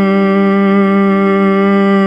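A person humming one long, steady note as a meditation humming exercise, held at the same pitch throughout.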